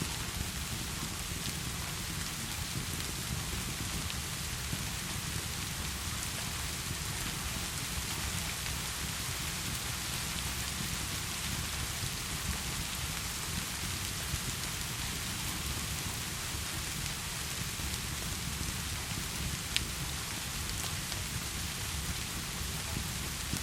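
Steady heavy rain falling, an even hiss with a low steady rumble underneath and a few faint sharp clicks.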